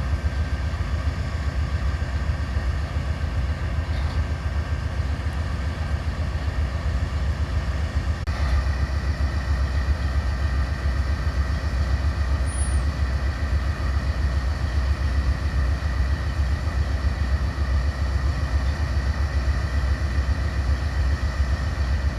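Diesel locomotive running with a steady low rumble and a faint high whine that steps up slightly in pitch about eight seconds in.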